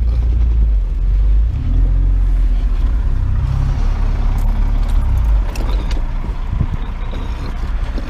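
A vehicle's engine runs with a heavy low rumble while driving, then eases off about five and a half seconds in. A few light knocks follow.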